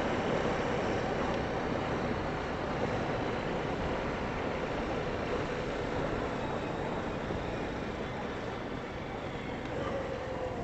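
Four-wheeler (ATV) engine running steadily while riding along the trail, easing off slightly near the end.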